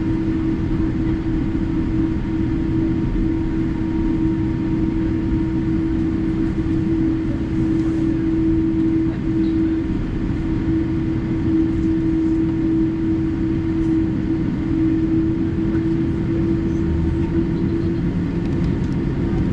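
Cabin noise of a Boeing 787-8 with General Electric engines: a steady engine hum with one held tone over a low rumble, level and unchanging, as when the airliner is taxiing on the ground.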